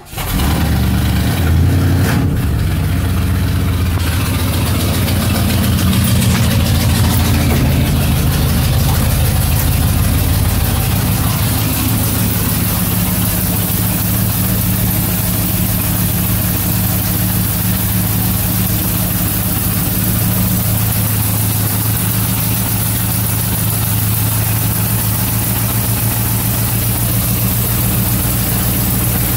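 1977 Mercury Marquis V8 with dual exhaust starting after sitting unused for a while: it catches almost at once, revs up briefly in the first couple of seconds, then settles into a steady idle.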